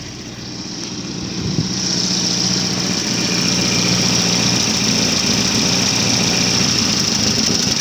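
Volvo 940 Turbo's 2.3-litre turbocharged four-cylinder idling on its own, no throttle, just after a cold start. It grows a little louder over the first couple of seconds, then runs steadily with a high hiss.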